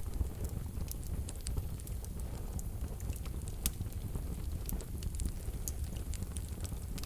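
Wood fire burning in a wood-burning stove: soft irregular crackles and pops over a low, steady rumble of the flames.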